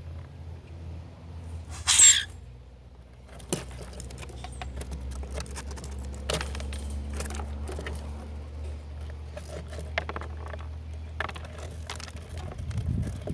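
Birds feeding at a backyard feeder: scattered small taps and scratches, with a brief loud rustling burst about two seconds in, over a low steady hum.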